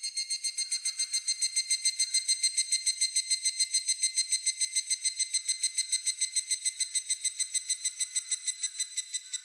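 Higurashi (evening cicada) calling: a long run of rapid ringing pulses, about eight a second, that swells in at the start, eases slightly toward the end and then stops.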